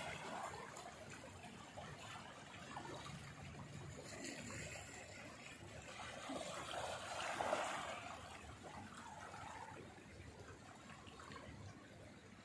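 Faint water sound, a gentle trickling and lapping, swelling briefly about seven seconds in.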